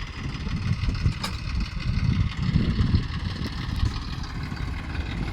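Tractor diesel engine running with a low, uneven throb, and a single short click about a second in.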